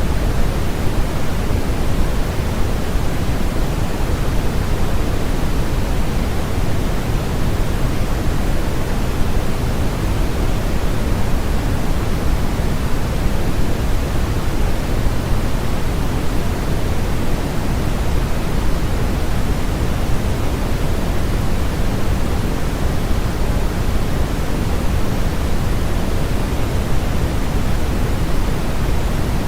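Steady, electronically generated noise for sleep masking: a constant, even rushing hiss that is heavier in the low end than in the highs, with no changes or breaks.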